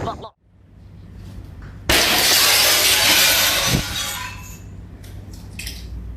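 A sudden loud crash of something breaking about two seconds in, its noise trailing off over the next two seconds.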